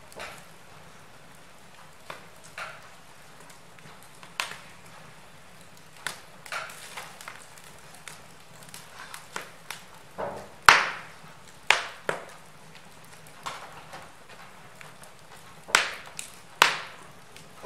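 Wood fire burning in a fireplace, crackling with irregular sharp pops and snaps over a faint steady hiss; the loudest pops come about eleven seconds in and near the end.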